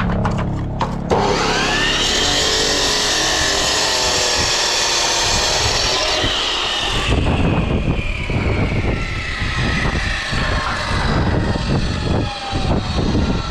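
Angle grinder cutting a brick to size: the motor starts suddenly about a second in and runs with a whine that sinks slowly in pitch as the disc bites. Harsh cutting hiss fills the first half, and the noise turns rougher and choppier from about halfway.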